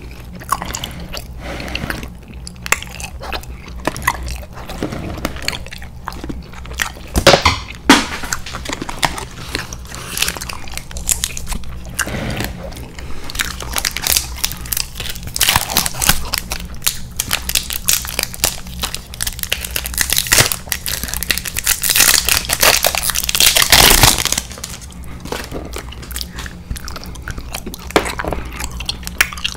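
Close-miked chewing and biting of candy, with a crinkling candy wrapper being handled and opened. The wrapper crinkling is loudest in a stretch of a few seconds past the middle.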